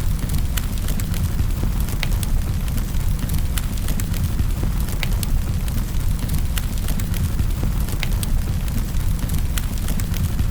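Fireplace fire crackling, with sharp irregular pops scattered over a steady low rumble of the flames.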